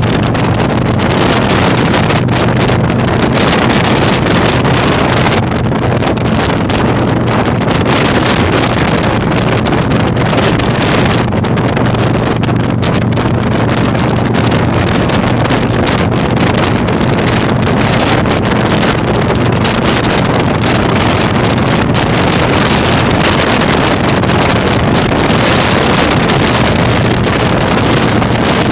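Loud, steady wind buffeting the microphone on a moving Yamaha Virago 1100 motorcycle, with the steady low drone of its V-twin engine underneath.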